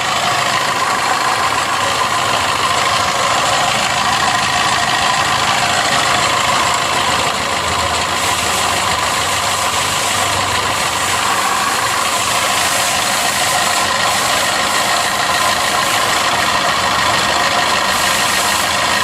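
Maruti Suzuki Swift Dzire engine idling steadily with an abnormal running noise that comes from the water pump, whose bearing has failed.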